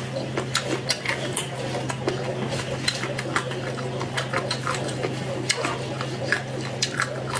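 Close-miked chewing of chicken feet: irregular wet mouth clicks and smacks, several a second, over a steady low hum.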